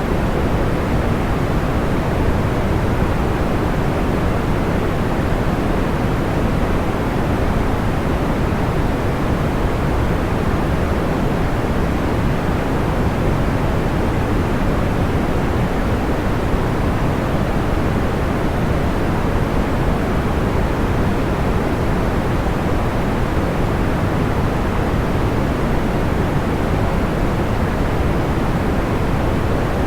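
Steady white-noise sleep sound: an even, soft hiss-free rush weighted toward the low end, with no crackles or changes.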